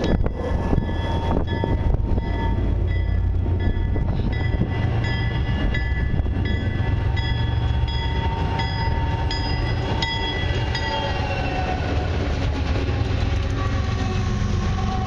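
Diesel locomotives of a long Canadian Pacific freight train passing close by: a heavy, steady engine rumble under a high whine that drops in pitch about two-thirds of the way through as they go past. Evenly spaced clicks of wheels over the rails run beneath it.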